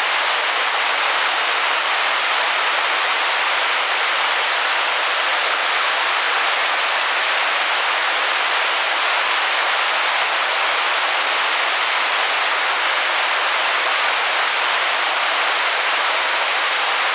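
Small river waterfall: water pouring over the fall in a loud, steady rush with no breaks.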